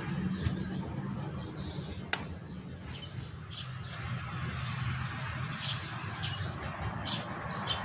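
Small birds chirping in short, repeated calls over a low steady hum, with one sharp click about two seconds in.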